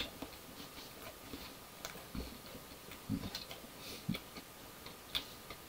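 Quiet chewing and mouth sounds of a man eating hot chicken: scattered faint clicks and smacks, with three short low throat sounds about two, three and four seconds in.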